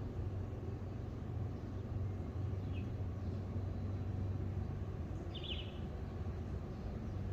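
Small bird calls: a short high chirp about three seconds in, then a brief trilled call a couple of seconds later. A steady low rumble runs underneath.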